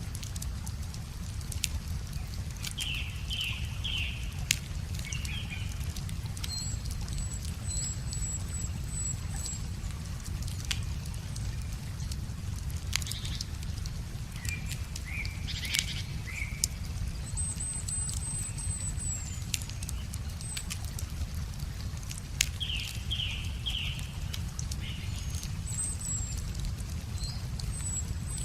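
Wood fire crackling with scattered sharp pops over a steady low rush of river water. Birds sing: a short phrase of a few notes comes twice, and thin high trills come and go.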